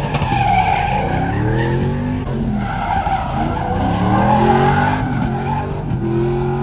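Truck engine revving up and down repeatedly, with tires squealing and skidding on pavement.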